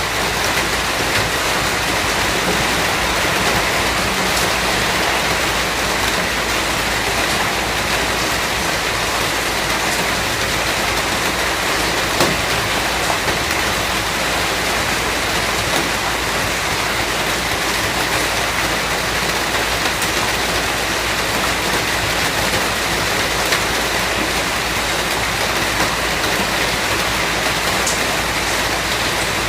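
Steady rain falling, an even hiss with a few sharper drop hits now and then.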